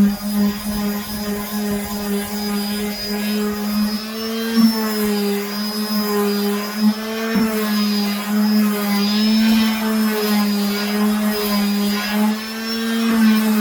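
Electric sander running on wood with 180-grit paper: a steady motor hum whose pitch wavers slightly as it is pressed and moved over the surface.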